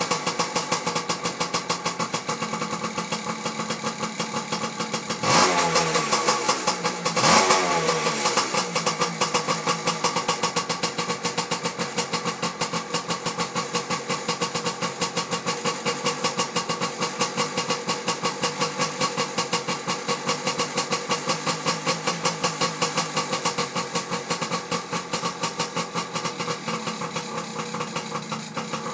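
Yamaha PW80's small two-stroke single-cylinder engine with an aftermarket performance exhaust idling, blipped twice about five and seven seconds in, then settling back to a steady idle.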